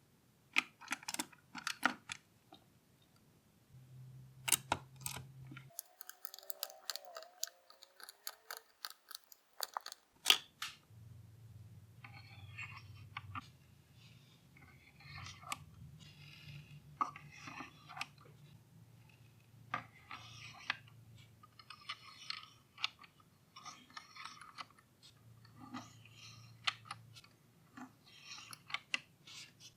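Small clear plastic parts of a model engine kit being handled and fitted together: irregular sharp clicks and taps, with scratchy crackling joining them in the second half.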